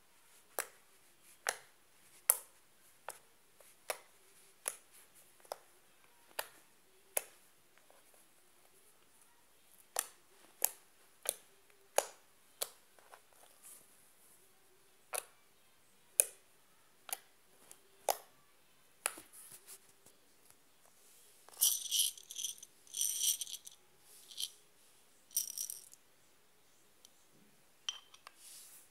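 Small beads clicking and rattling: single sharp clicks every second or so, then several bursts of rattling about two thirds of the way through, as the beads are shaken and sprinkled.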